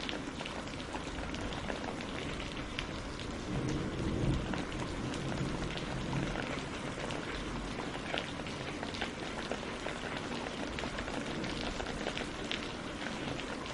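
Steady rain falling on leaves and on a lake's surface, with many separate drops ticking through the hiss. A low rumbling swell rises and fades about four seconds in.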